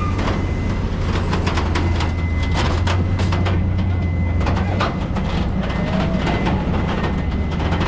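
Heavy truck engine running steadily with a deep hum, overlaid by many short knocks and clicks.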